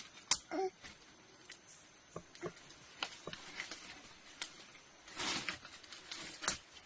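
Irregular light clicks and short rustles, a few scattered through each second, with a brief pitched sound about half a second in.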